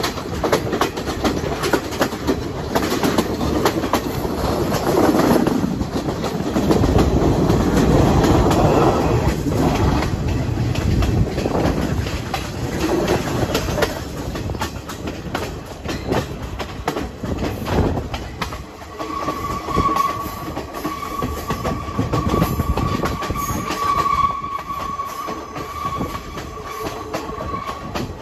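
Passenger train running, heard from inside the carriage by an open window: a rumbling, clattering run over the rails, loudest through the middle. For the last third a steady high-pitched squeal joins in, the wheels squealing on a curve.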